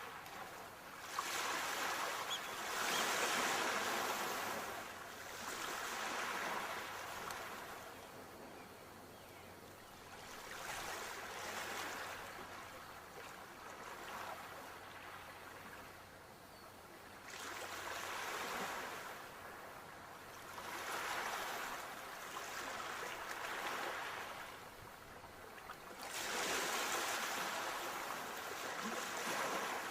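Sea waves breaking and washing up the shore, rising and falling in swells every few seconds, the biggest about a second in and again near the end.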